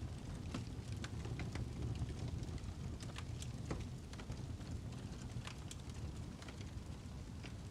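Fireplace fire crackling: a steady low rumble with scattered sharp pops and snaps, a few each second.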